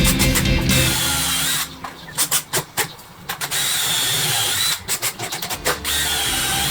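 Power drill running in several short bursts with a high whine, stopping and starting again twice, as it works plywood.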